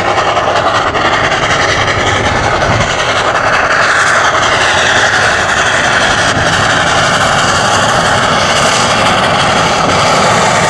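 Steady running noise in the cab of NZR Ww class 4-6-4T steam tank locomotive No. 644 under way: rail and running-gear noise at an even, loud level.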